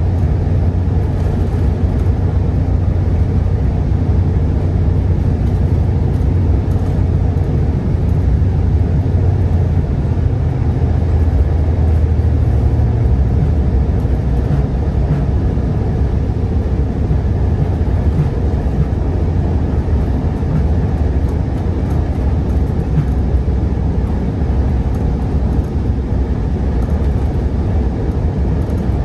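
Commuter train running on the line, heard from on board: a steady low rumble that holds even throughout.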